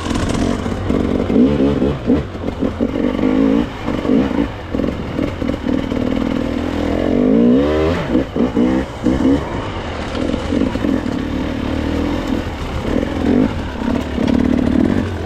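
Dirt bike engine revving up and down on and off the throttle, with quick blips and a longer climb in revs about halfway through.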